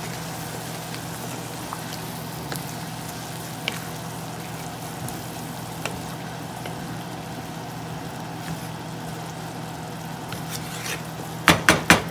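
Spinach and chicken curry sizzling in a wok as a wooden spatula stirs it through the added milk, over a steady low hum with a few light ticks. Near the end, four quick knocks of the wooden spatula against the pan.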